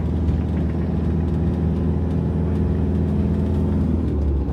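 Camper van's engine running while driving, with a steady low drone of engine and road noise; the low drone drops away near the end.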